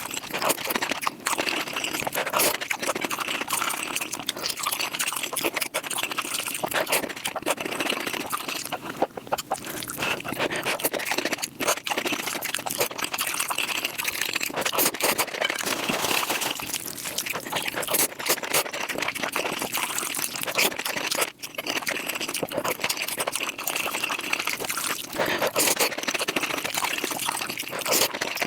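Wet eating sounds of noodles and rice cakes, sped up about five times: quick, dense slurping and chewing with many fast smacks and clicks.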